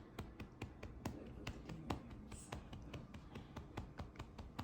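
Faint light clicks or taps, about five a second, fairly evenly spaced.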